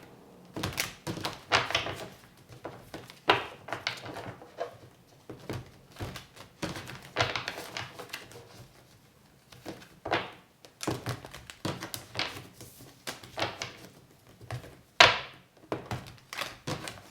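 A deck of tarot cards being shuffled by hand: irregular soft slaps, clicks and taps of the cards, with one sharper knock about fifteen seconds in.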